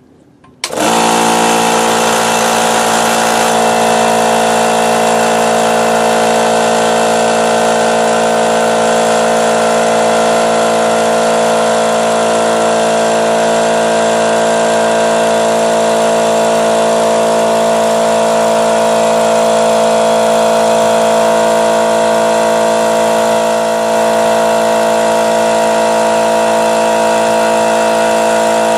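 Central Pneumatic 8-gallon, 2 HP oil-lubricated air compressor kicking on suddenly about a second in and running steadily, its pump filling the tank up to pressure.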